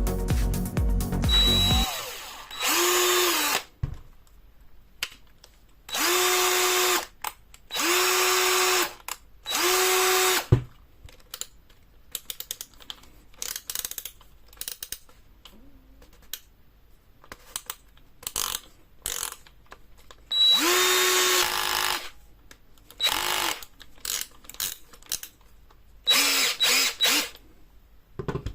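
Parkside 20V cordless drill run in about seven short trigger pulls, each spinning up to speed for about a second and winding down, with clicks of handling between the runs. This is the drill being tried out after its disassembly and maintenance.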